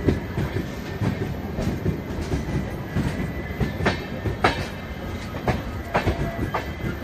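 Passenger train's LHB coaches rolling past, with a steady rumble and irregular sharp clacks of wheels over rail joints and points.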